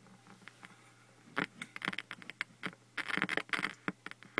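Built-in speakers of a 27-inch iMac crackling and popping irregularly with nothing audible playing, like a stylus set down on a record. The crackle is sparse at first, then comes in thick clusters from about a second and a half in, over a steady low hum. The fault was traced to the logic board.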